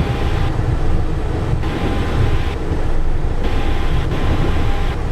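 Cockpit noise of a Cessna Citation Encore on the ground after landing: a steady low rumble from the idling turbofan engines, with a hiss above it that comes and goes about every second.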